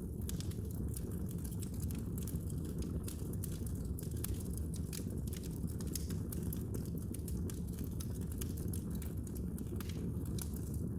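Wood fire burning in a fireplace, crackling with many small snaps and pops over a steady low rumble of the flames.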